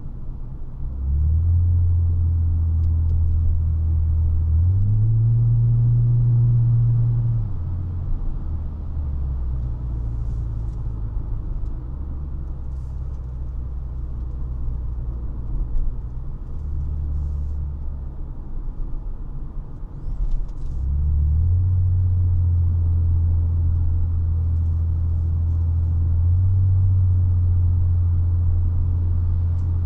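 Honda Legend's 3.5-litre V6 exhaust under way with a low drone, pulling harder and louder about a second in, climbing in pitch and then dropping back around seven seconds in. It eases off through the middle, then pulls louder again about twenty-one seconds in and holds, with a steady road rumble underneath.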